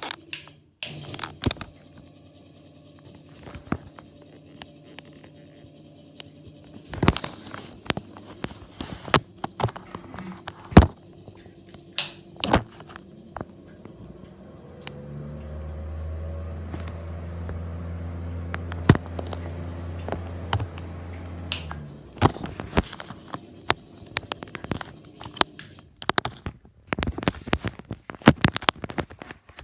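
Ceiling exhaust fan motors humming steadily, with many sharp clicks and knocks. About halfway through, a louder, deeper fan hum comes on with a short rising whine as it spins up, then stops about seven seconds later.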